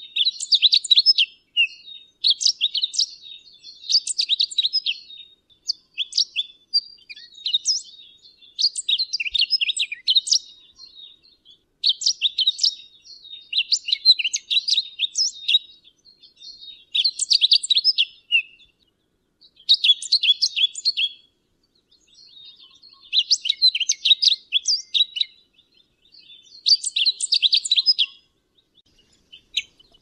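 Pine grosbeak singing: about ten short phrases of quick high notes, each a second or two long, with short pauses between them.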